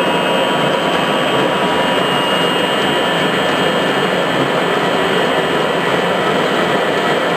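Pellet machine running: a loud, steady mechanical noise with a few faint steady whining tones, unchanging throughout.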